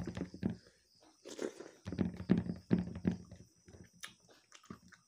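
A man chewing food close to the microphone: irregular wet mouth clicks and smacks, with a short lull about a second in.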